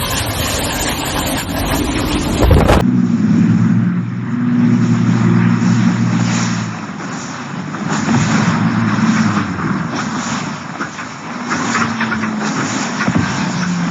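Aircraft engine noise from landing footage. A rushing, wind-like roar gives way abruptly, about three seconds in, to a lower droning hum with steady pitches that swell and fade.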